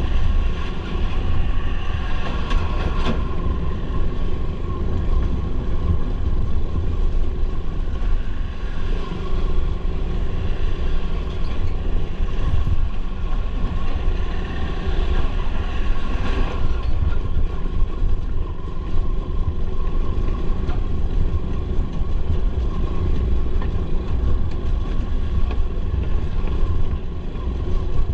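Motorcycle on the move: steady engine running under heavy wind noise buffeting the microphone.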